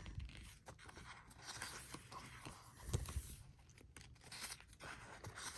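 Pages of a sticker book being handled and turned: faint paper rustling and scraping with small clicks, and a soft thump about three seconds in.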